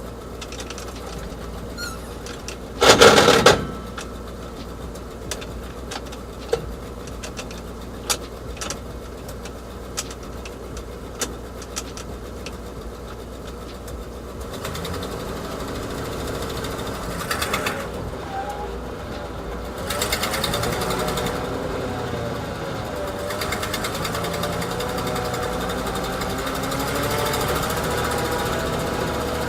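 1966 Ford F500 dump truck's engine running, with a short loud blast about three seconds in and a few sharp clicks. In the second half it grows louder as the truck pulls away, its pitch rising and falling with the engine speed.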